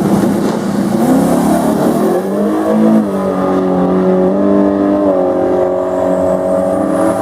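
Drag race car engine accelerating hard down the strip. Its pitch climbs for about two seconds, drops sharply at an upshift about three seconds in, then holds fairly steady.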